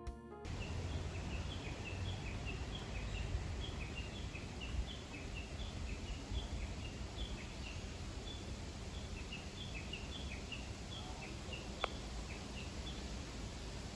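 Small birds chirping: many short, high chirps, several a second, over a steady low rumble, with a sharp click near the end.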